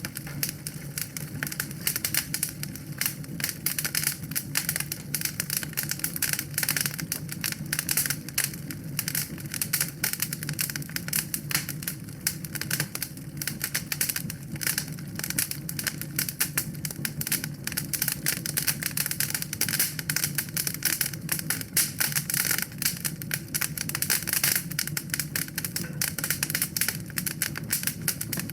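Wood fire in a fireplace crackling, with dense, irregular small pops and snaps over a steady low rumble.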